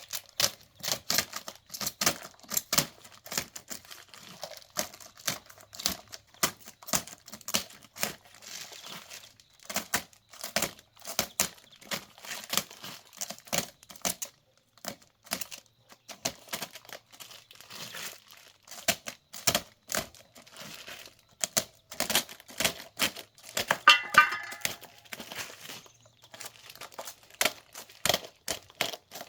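Plastic wrapping crinkling and tearing in irregular crackles as it is cut and pulled open by hand with scissors. A brief squeaky sound, the loudest moment, comes about four-fifths of the way through.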